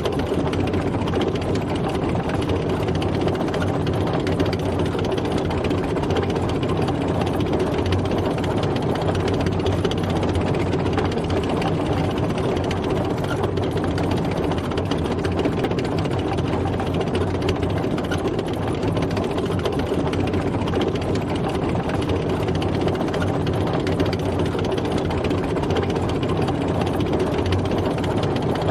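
Tank driving: its engine runs steadily under a dense, even mechanical clatter, with no change in speed.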